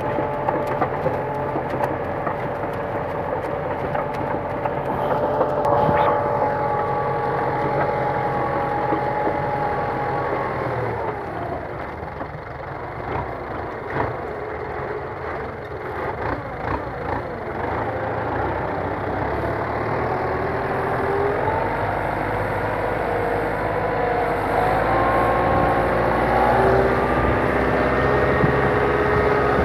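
Kubota M9540 tractor's diesel engine running. Its pitch drops about ten seconds in and climbs again from about twenty seconds on.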